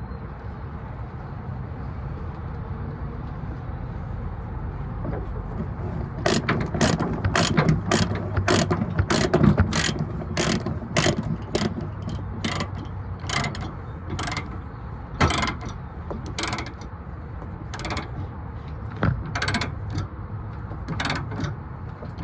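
Ratchet tie-down being cranked to tension the load securement: after about six seconds of a steady low hum, a long run of sharp ratchet clicks, roughly one or two a second, lasting until near the end.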